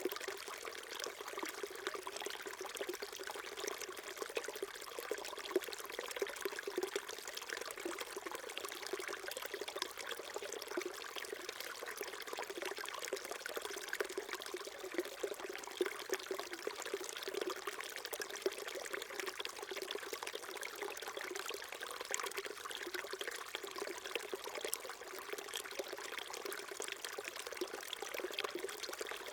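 Small mountain stream flowing and trickling over rocks, a steady babbling with small splashes throughout.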